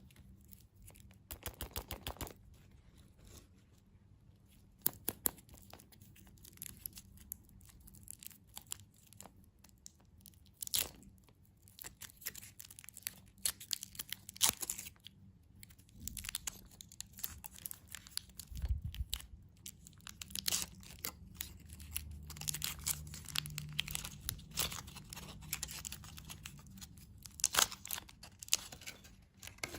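Close-up crinkling and tearing of candy wrappers or packaging, in irregular short crackles, with occasional crunches.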